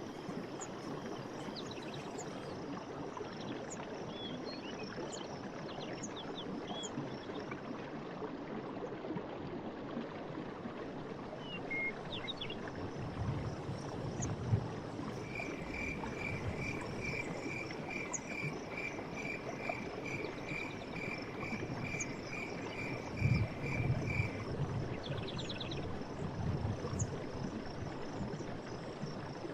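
Forest stream running steadily, with scattered bird chirps. From about halfway in, a call repeats evenly at about two notes a second for some nine seconds, and a few low gurgling thumps rise from the water.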